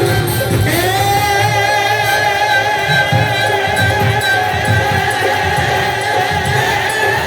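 Live Hindi devotional bhajan music: a long held, wavering note, sung or played, enters about a second in and is sustained over a steady drum beat.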